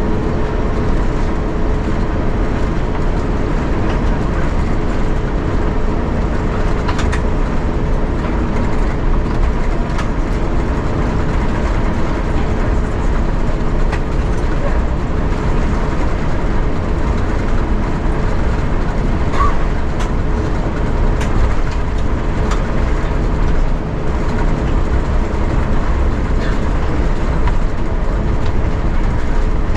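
Cabin noise inside an Airbus A350-900 taxiing after landing: a steady rumble from the Rolls-Royce Trent XWB engines at idle and the cabin air system, with a steady hum and a few faint clicks.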